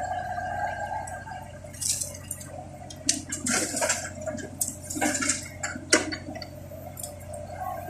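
Irregular sharp taps of raindrops hitting the vehicle, thickest from about two to six seconds in, over a steady low engine hum. A steady whine fades out in the first second and a half.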